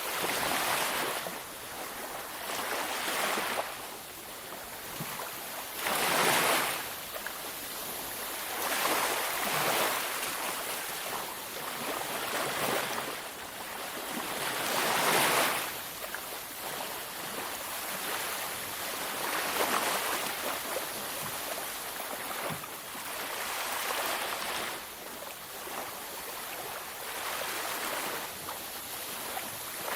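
Waves breaking and washing on a beach, a steady hiss of surf that swells every few seconds, with the strongest breakers about six and fifteen seconds in.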